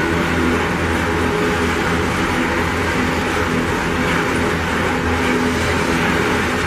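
Iron ore freight wagons rolling past close by: a steady, loud rumble of steel wheels running on the rails, with a few faint humming tones over it.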